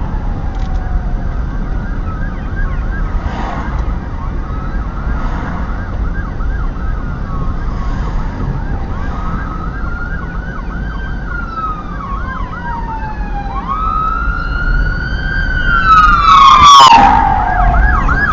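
Emergency vehicle sirens sounding: a slow rising and falling wail together with a faster warbling yelp, over a low engine and traffic rumble. The sirens grow louder and are loudest near the end.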